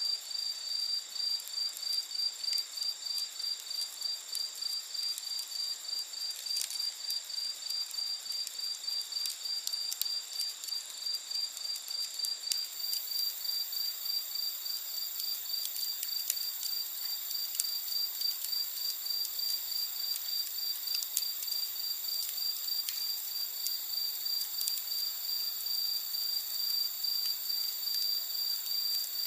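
Crickets or similar insects chirping in a steady pulsing rhythm, with higher continuous insect trills; another very high trill joins about halfway through. Scattered faint crackles and pops of a wood campfire.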